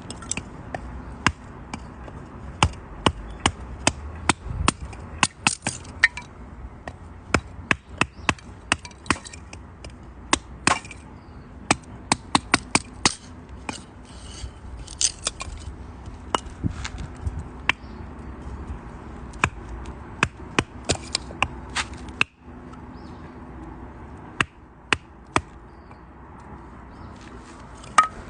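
Wood campfire crackling: many sharp, irregular pops and snaps over a steady low hiss of burning.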